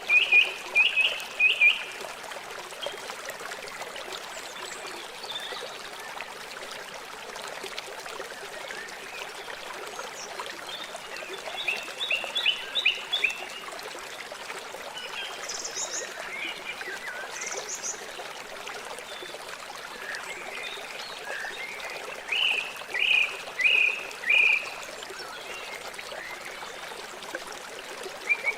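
Flowing river water, a steady rushing hiss, with runs of four or five short, high chirps from a small animal: at the start, around the middle, and again near the end.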